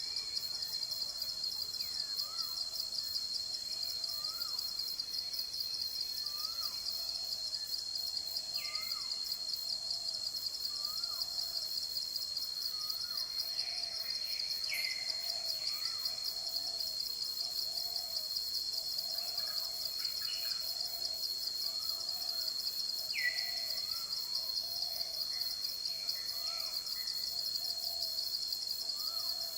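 Forest ambience: a steady, rapidly pulsing insect trill throughout, with a bird repeating a short chirp about every second and a half. Lower calls repeat about once a second, and a few louder downswept calls come at intervals.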